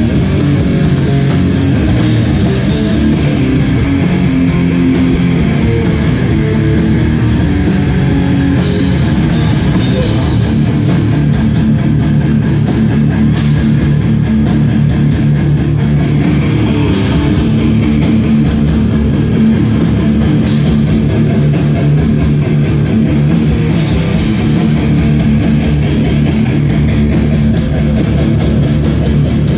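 Hardcore band playing live at full volume: heavy distorted electric guitars over bass and drum kit, with cymbal crashes recurring through the song.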